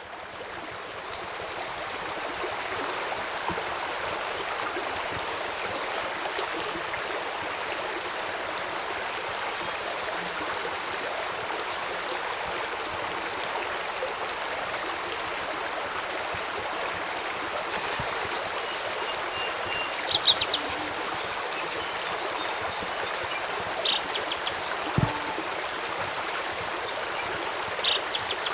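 Flowing river water, a steady rushing hiss that fades in over the first couple of seconds. In the second half there are a few short high birdcalls and some sharp pops, the loudest of them about 20 seconds in.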